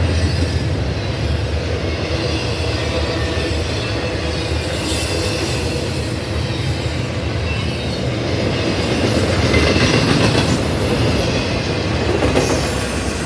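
A train's cars rolling steadily past, with a low rumble of wheels on rail and faint wheel squeal.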